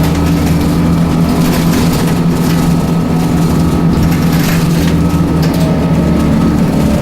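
The bus's Scania 9-litre six-cylinder turbocharged CNG engine runs steadily with an even low hum, with a few brief rattles over it.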